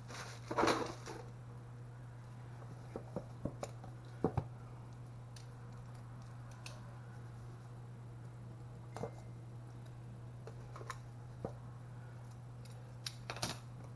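Light handling noises: a cardboard box is shifted on a cloth, with a brief scrape about a second in. Then come scattered small clicks and taps as a small folding tool is handled, over a steady low hum.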